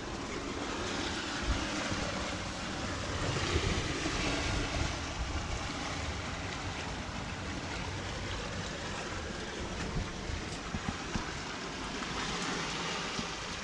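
Sea waves of the incoming tide washing over and through shoreline rock, a steady rush that swells a few seconds in, with wind buffeting the microphone.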